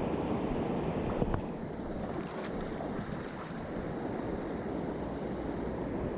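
Mountain stream running over rocks, a steady rushing of water, with a couple of faint clicks between one and three seconds in.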